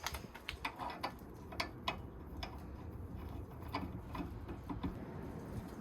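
Scattered light clicks and taps at an irregular pace, most of them in the first half, over a quiet background.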